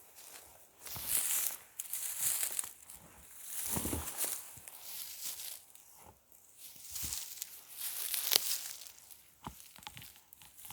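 Dry forest litter crunching and rustling close to the microphone, in several irregular bursts a second or two apart.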